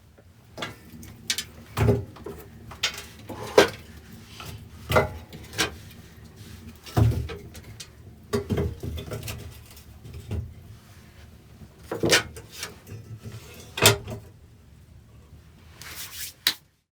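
Irregular knocks, thuds and scraping of things, likely wood, being handled and moved about, a dozen or so sharp knocks at uneven intervals. The sound cuts off abruptly near the end.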